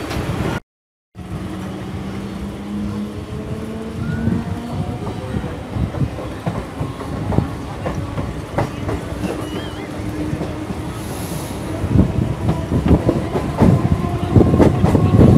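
Chennai suburban electric local train pulling away from a station, heard from its open doorway: a motor whine slowly rising in pitch as it gathers speed, with wheels clicking over the rail joints, the clatter growing louder and quicker near the end. A brief cut to silence about half a second in.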